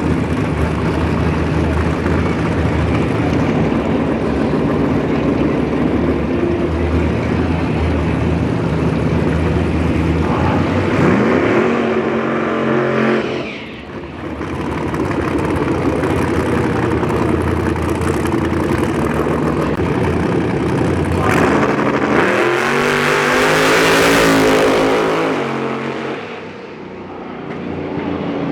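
Drag race car engines running with a steady rumble, then revving up in two long rising sweeps, each cutting off abruptly.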